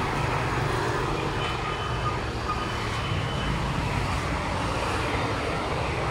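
Steady street traffic noise, a continuous rumble of passing vehicles.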